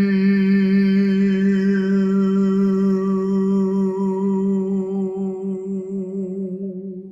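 A man's voice holding one long sung note in sound-healing toning, with a slight waver. It slowly fades and stops just before the end.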